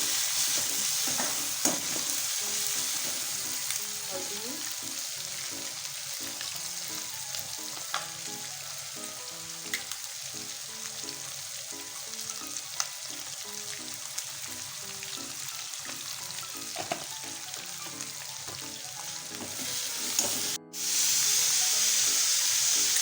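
Chicken diamond pieces deep-frying in hot oil: a steady sizzle with a few light clicks, probably from stirring. Near the end the sound cuts out for an instant and comes back louder.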